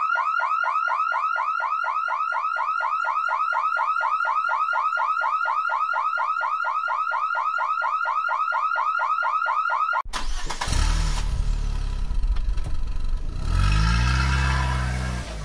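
Battery toy motorcycle's electronic siren sound effect: a fast-repeating rising chirp, about four or five a second, that cuts off abruptly about ten seconds in. After it comes a rough rumbling noise, with a low rising drone near the end.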